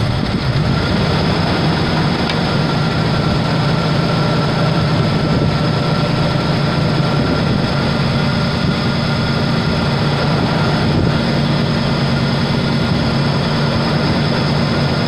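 1987 Ford Bronco II's 2.9-litre V6 idling steadily, just after being restarted.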